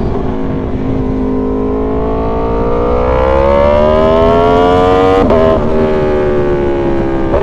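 Aprilia Tuono V4 motorcycle's V4 engine, through a short aftermarket exhaust, accelerating with the revs climbing steadily. About five seconds in it shifts up a gear and the pitch drops sharply, then the engine pulls on with the revs easing slightly lower.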